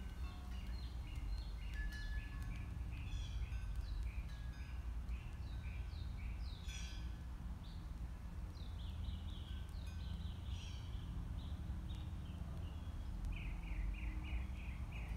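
Songbirds chirping and singing in short repeated phrases, with a quick run of repeated notes near the end, over a steady low outdoor rumble.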